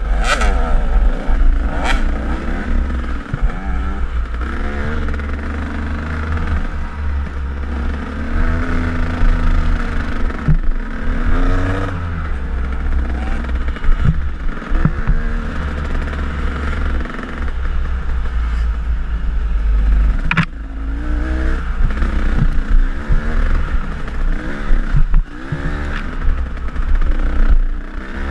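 KTM enduro dirt bike engine on the trail, the revs rising and falling repeatedly as the rider works the throttle, with heavy wind rumble on the camera and a few sharp knocks from the bike over rough ground.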